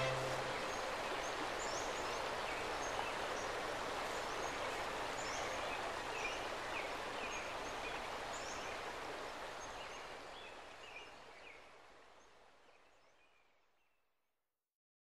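Outdoor ambience: small birds chirping repeatedly over a steady rushing background noise. The sound fades out over the last few seconds to silence.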